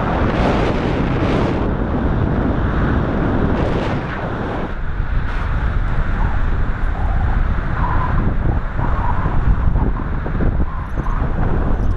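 Strong wind buffeting the microphone of a paraglider in flight: a loud, steady rumble with a few brief gusts of hiss.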